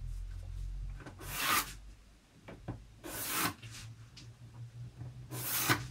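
Pencil scratching along a ruler on card paper: three strokes of about half a second each, roughly two seconds apart.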